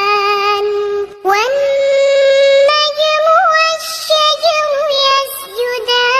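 A child's voice reciting the Quran in melodic tajweed chant, holding long drawn-out notes with small ornamental turns. There is a brief pause for breath about a second in.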